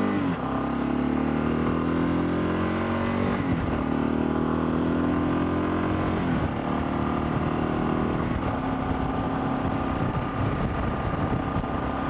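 Motorcycle engine pulling away and shifting up through the gears: the pitch breaks and drops three times, near the start, at about three and a half seconds and past six seconds, climbing again after each, then holds steady at cruising speed.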